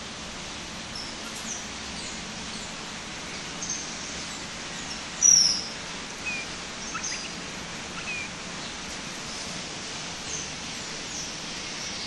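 Several aviary birds giving scattered short chirps and whistles over a steady background hiss, with one louder falling whistle about five seconds in.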